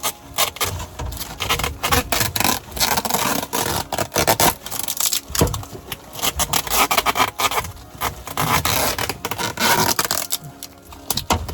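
Irregular scraping and rubbing of hand work on HVAC ductwork, coming in uneven strokes and clusters with short pauses between.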